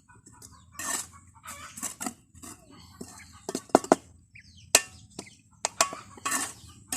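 Chickens clucking in short calls, mixed with a few sharp knocks and clatters.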